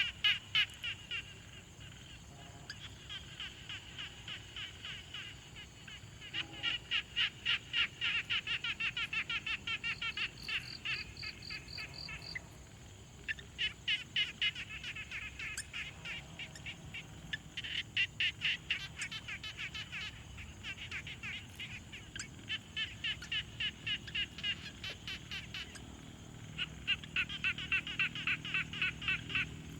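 A chorus of frogs calling at a pond: bouts of rapid pulsed croaks, each lasting a few seconds and coming again every few seconds, over a faint steady high-pitched hum.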